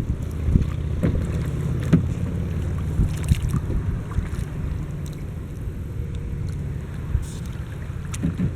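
Wind buffeting the microphone: a steady low rumble with a few small knocks scattered through it.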